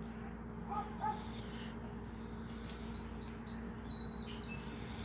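A few faint, short bird chirps over a steady low hum in the background.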